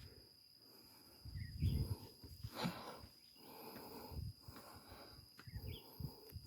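A steady high-pitched insect drone outdoors, with soft irregular low thumps and a couple of brief chirps.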